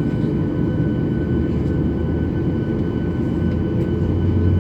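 Airliner cabin noise while taxiing: a steady rumble and hum of the aircraft's engines heard from inside the cabin, with a low drone that grows louder near the end.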